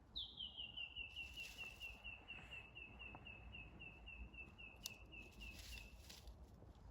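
A bird calling in a long, even run of about two dozen short down-slurred notes, about four a second, the first few a little higher before settling on one pitch, stopping about six seconds in.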